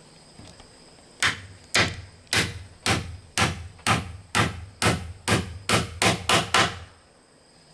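About a dozen sharp blows from a hand tool striking wood, roughly two a second and coming slightly faster near the end, over a steady high trill of insects.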